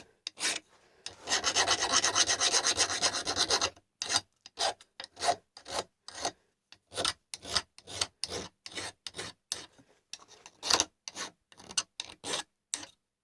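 Hand file rasping across the edges of a cast-iron plane frog held in a vise, taking the sharp corners off. About a second in comes a fast run of short strokes lasting nearly three seconds, then separate strokes at about three a second.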